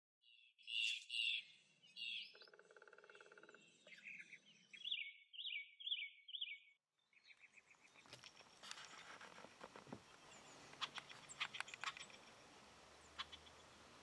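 Small songbirds chirping in short, repeated high calls. About seven seconds in, the sound gives way to a faint steady outdoor background with scattered high chirps and ticks.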